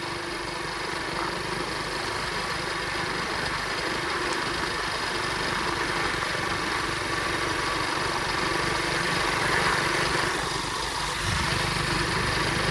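Flywing pit bike's small engine running while ridden, getting a little louder near the end. The rider says it is bogging down because no filter is fitted and the carburetor is sucking up wet snow and water.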